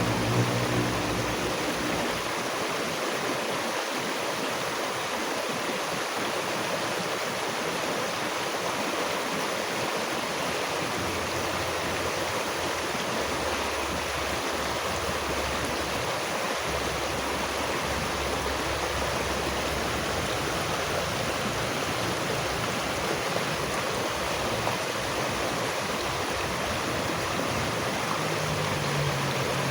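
Steady rushing of running water, like a stream flowing, even and unbroken, with a faint low hum in the first two seconds and again near the end.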